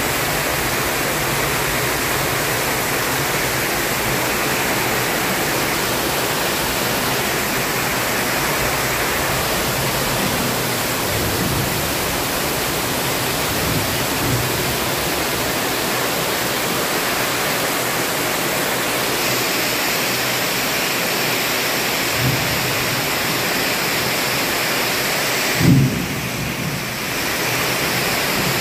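Heavy tropical rain pouring steadily onto dense foliage and palm fronds, a thick even hiss. A few brief low thumps break through it, the loudest shortly before the end, after which the hiss briefly thins.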